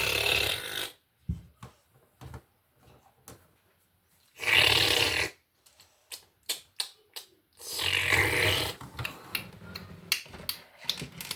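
A child making three long, harsh, raspy noises with the voice, with scattered small clicks between them.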